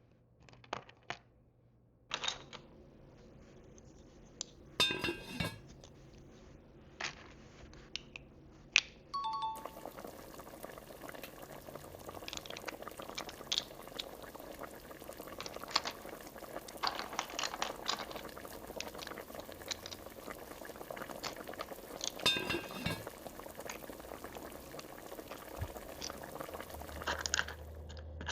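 Small plastic miniature food pieces and tiny dishes clicking and clinking as they are picked up and set down, with two longer clattering handfuls, one early and one near the end. A steady hiss sits under the middle part.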